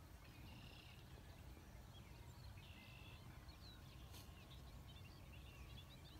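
Near silence: a faint low rumble, with faint short bird calls about half a second in and again near three seconds.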